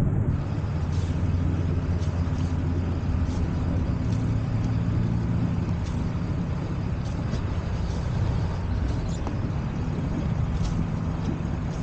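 A sailboat's engine running steadily at low speed, a low, even drone while the boat motors under power.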